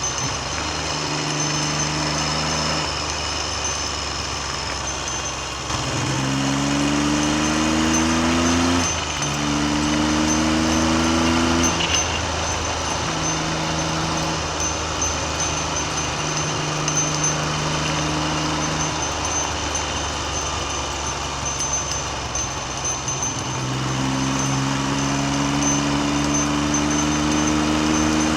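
Triumph Trident three-cylinder engine under way on the road. It pulls up through the gears, its pitch rising and then dropping at gear changes about 9 and 12 seconds in, cruises steadily, then accelerates again near the end. Constant wind noise runs over the microphone.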